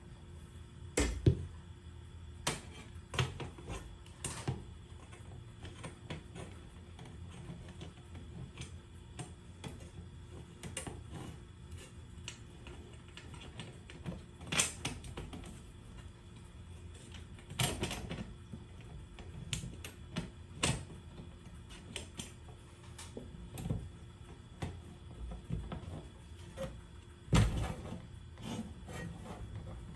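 Irregular clicks and knocks of hardware and tools being handled, a few sharper clunks standing out, over a steady low hum.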